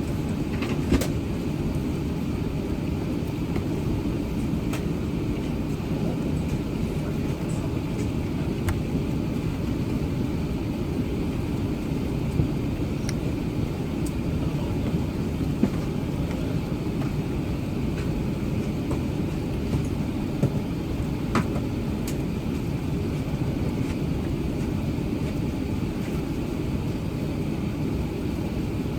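Steady low rumble of an Airbus A380-800's engines and airframe heard from inside the passenger cabin, unchanging throughout, with a few faint clicks and rattles.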